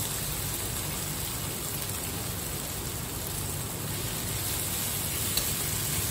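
Diced potatoes and okra frying in mustard oil in a kadhai: a steady sizzle while the vegetables are stirred with a silicone spatula.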